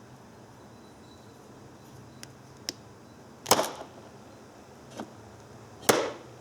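Wire stripper at work: a couple of light clicks, then two loud, sharp snaps a little over two seconds apart as the tool grips and strips the insulation from a wire.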